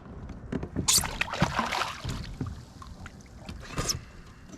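Water splashing and knocks on a kayak while a hooked spotted bay bass is landed and handled. Irregular noisy rushes, the strongest about a second in and near the end.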